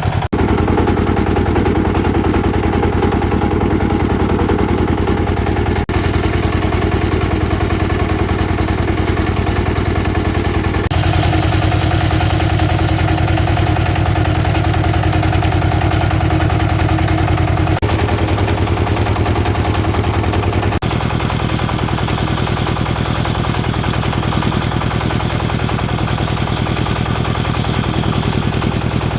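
Two-stroke chainsaw engine running steadily, with its rapid firing pulse, in a test run after repair. Its tone shifts abruptly a few times.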